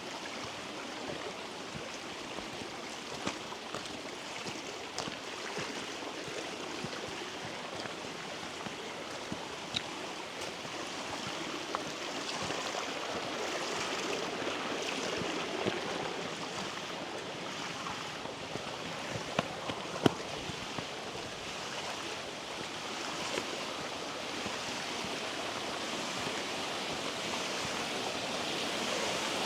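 Steady rushing of mountain stream water from the river that makes Shekarab Waterfall, growing gradually louder. A few sharp clicks break through, the loudest about twenty seconds in.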